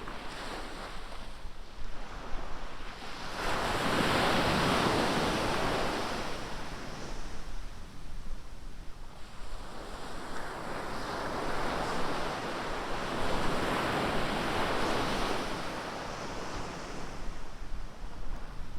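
Ocean surf breaking and washing up the beach in slow surges, a wave swelling about four seconds in and a longer one near the middle, with wind buffeting the microphone.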